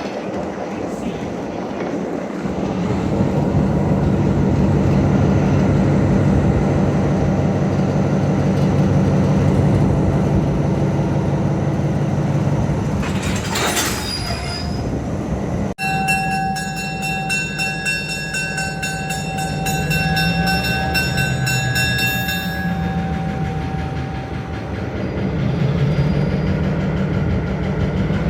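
Train moving on the track with its engine running steadily. In the second half a steady high-pitched squeal, typical of wheels on curved rail or switch points, lasts about six seconds.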